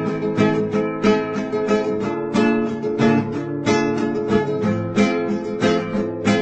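Instrumental passage of a song, led by a strummed guitar playing in a steady rhythm.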